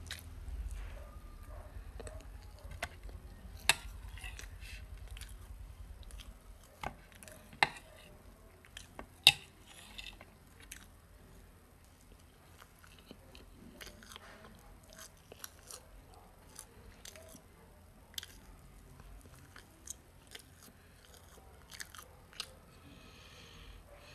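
A child chewing and biting soft pancake close to the microphone, with many sharp, wet mouth clicks and smacks; the loudest clicks come in the first ten seconds.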